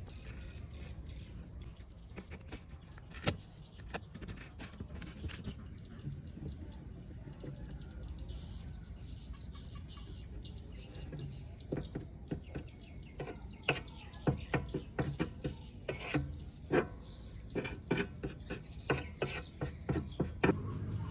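Scattered sharp clicks and taps, coming thicker in the second half, over steady low background noise, with birds chirping in the background.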